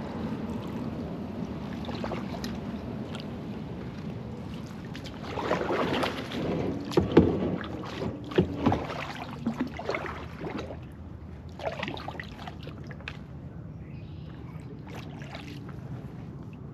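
Kayak paddling in shallow water: the paddle dipping and swishing through the water, with several sharp knocks in the middle stretch, then quieter.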